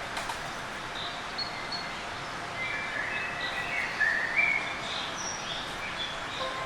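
Several songbirds chirping and singing short whistled phrases over a steady background hiss of forest ambience.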